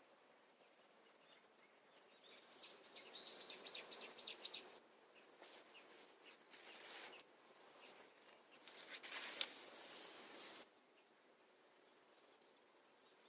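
A songbird singing a quick run of about six short, high notes, followed later by two spells of noise that could be wind or rustling, over a faint outdoor background.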